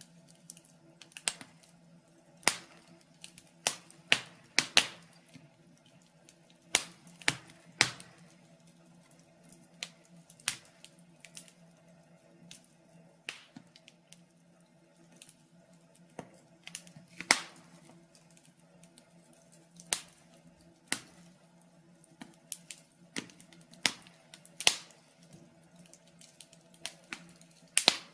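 Wood fire crackling in a fireplace, with sharp irregular pops and snaps every second or so.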